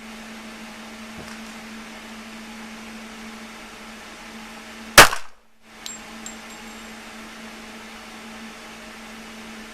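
A single loud pistol shot about halfway through, sharp and sudden, with the sound dropping out for a moment right after it. A couple of light clicks follow within a second, and a steady low hum runs underneath.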